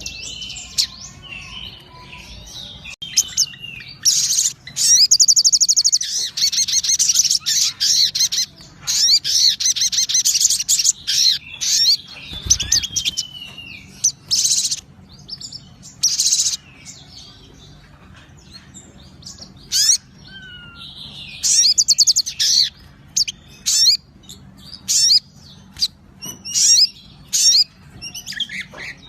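A sogon songbird singing in full voice: bursts of rapid, high trills and chattering phrases mixed with short gliding whistles, broken by brief pauses and a longer lull around the middle.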